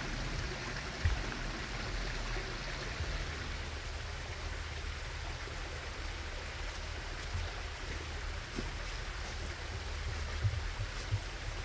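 Steady rushing of running water, like a stream, with a low rumble underneath and a few faint clicks near the end.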